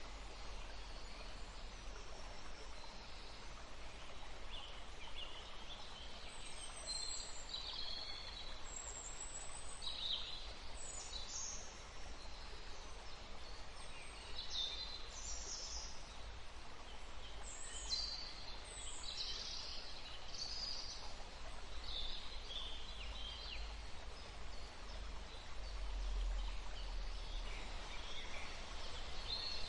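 A stream rushing steadily through woodland, with birds chirping and calling every few seconds over the water.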